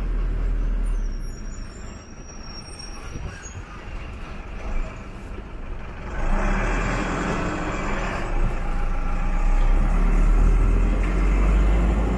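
Cabin noise of a small Tata Ultra bus: the engine running with road and rattle noise, getting louder about six seconds in as the bus picks up.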